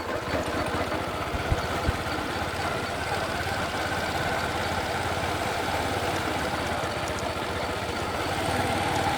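Small motorbike engine running steadily at low speed, with two dull low thumps about a second and a half in.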